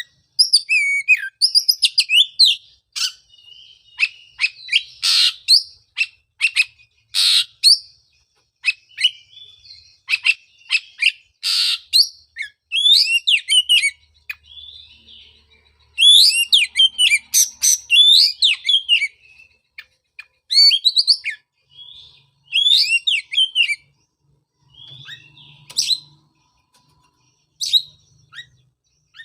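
Oriental magpie-robin (kacer) singing: varied phrases of rising and falling whistles, chirps and sharp rasping notes, in bursts separated by short pauses.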